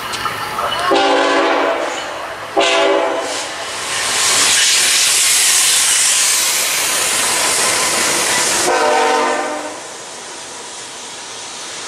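Train horn sounding three blasts, two close together in the first few seconds and a third about nine seconds in. Between them a train passes at speed with a loud rushing noise, which falls away after the last blast.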